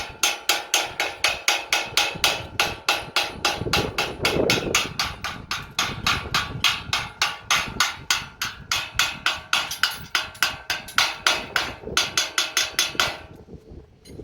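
Hammer striking the steel of an iron gate in a fast, even run of ringing blows, about four a second. The blows stop about a second before the end.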